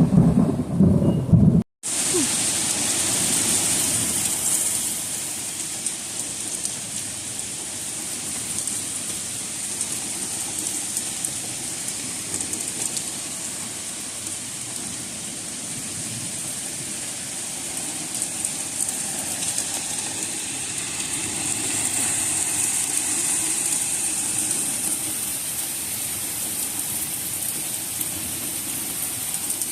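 Heavy rain falling in a thunderstorm, a steady hiss. In the first second or so a low rumble of thunder, which breaks off abruptly.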